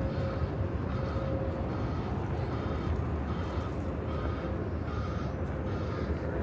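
City street ambience: a steady low rumble of traffic with a faint steady whine, and short light sounds repeating about once a second.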